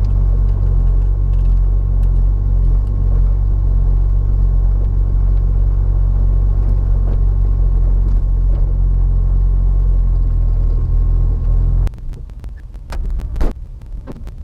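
A vehicle's engine and road noise make a steady low drone, with the engine held at constant revs and no revving. The drone cuts off suddenly near the end, and a few knocks follow.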